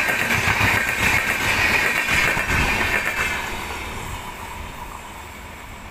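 Shatabdi Express passenger coaches running past at speed: a steady rush and rumble of wheels on rail. It fades from about halfway through as the tail of the train moves away.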